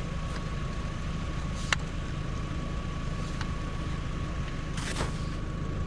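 Vehicle engine idling with a steady low rumble and a faint steady whine. A few sharp metallic clicks or knocks come through it, one about two seconds in and a broader one near the end.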